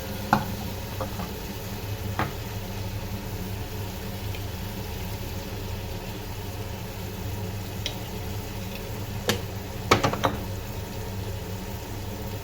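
Kitchen work: a few sharp knocks and clinks of utensils against cookware, the loudest cluster about ten seconds in, over a steady low background hum.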